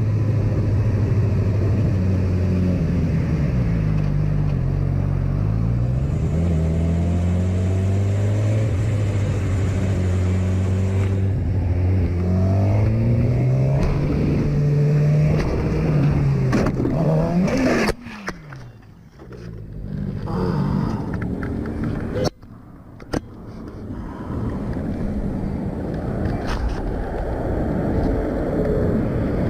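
Car engines running, their pitch sliding up and down as they speed up and slow down. The sound cuts off abruptly about eighteen seconds in and again a few seconds later before the engine noise returns.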